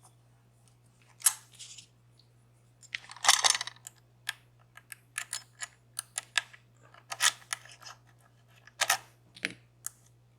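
Small metal clicks, taps and short scraping rattles of lock-picking tools and a lock being handled, irregular, with a longer rattle a few seconds in.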